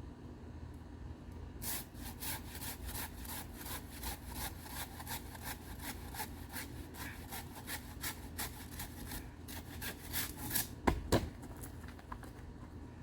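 Pruning saw sawing back and forth through a bird of paradise stalk in quick, even strokes. Two loud knocks sound near the end.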